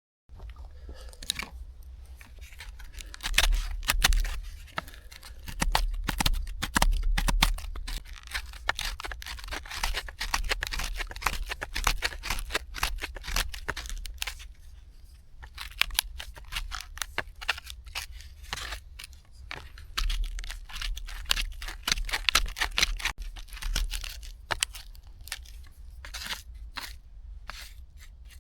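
Birch bark being torn and scraped into tinder, and a ferro rod struck over it: a long run of sharp rasping scrapes and crinkling, coming in clusters.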